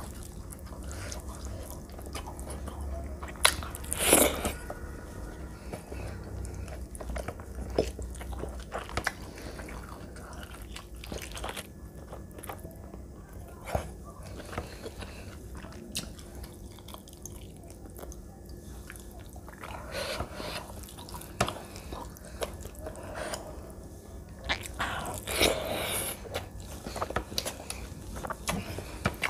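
Close-miked eating: chewing and mouth sounds of rice and curry eaten by hand, with fingers mixing the wet rice on the plate. Scattered short clicks and smacks, with a few louder ones about 4 seconds in and near the end.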